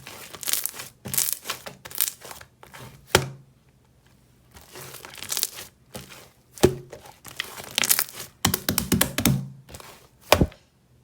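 A large batch of clear blue, jelly-like slime squished and pressed by hand, with irregular crackling, squelching and sharp popping clicks from trapped air, the loudest pops about three, six and a half, and ten seconds in.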